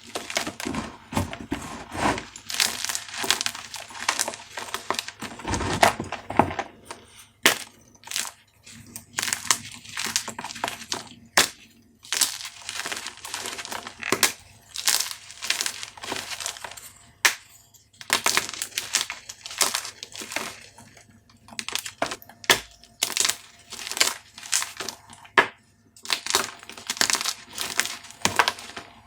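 Dyed gym chalk cubes being crushed by hand, a dense run of irregular dry crunches and crackles.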